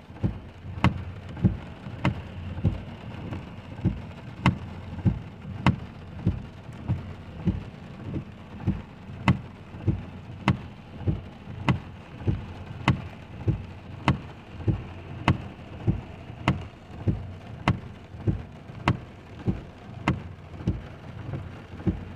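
Car turn signal relay ticking steadily, alternating louder and softer clicks a little more than once a second each, while the driver waits to pull out; rain patters on the car throughout.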